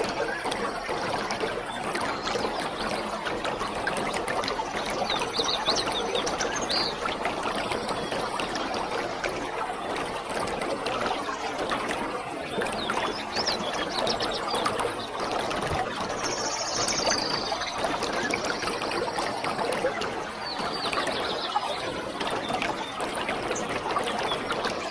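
Waterfall rushing steadily, with birds chirping a few times over the noise of the falling water.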